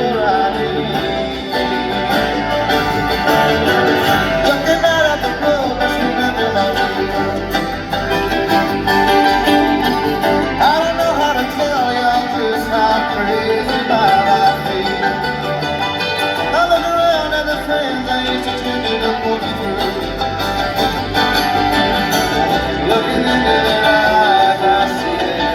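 Live bluegrass band playing with vocals, acoustic guitar and banjo, loud and continuous.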